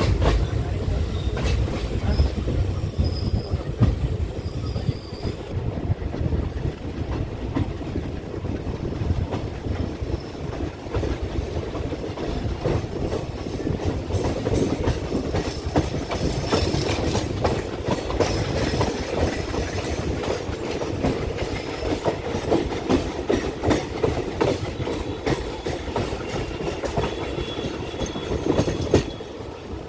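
Indian Railways passenger train running along the track, heard from an open carriage door: a steady rumble of wheels on rail with a stream of rapid clicks and knocks from the wheels passing over rail joints and points.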